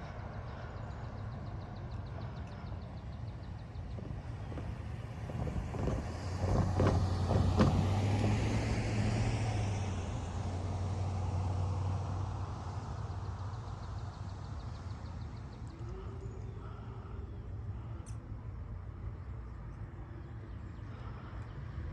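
A road vehicle passes over the crossing, its tyre and engine noise swelling to a peak about seven to nine seconds in and then fading. Under it, throughout, there is faint, rapid, even ticking from a distant railroad crossing bell.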